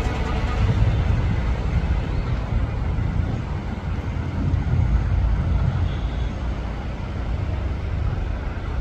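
Twin-engine Boeing 787 Dreamliner jet airliner climbing away after takeoff, its engines a steady low rumble that slowly fades.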